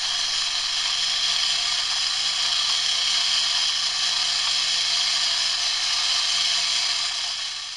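A device that is being used to crush ramen runs with a steady loud hiss and a faint low hum underneath, like a small motor.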